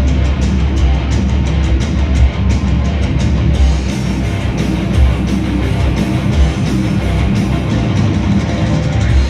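Heavy metal band playing: electric guitar over driving drums and bass, with a steady, fast beat.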